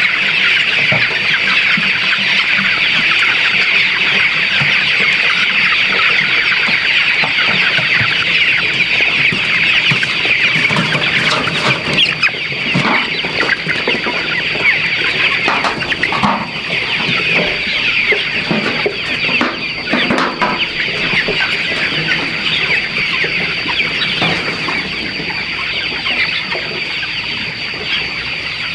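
A large flock of chickens: many birds chirping and clucking at once in a dense, continuous chorus. A thin steady high whine runs underneath.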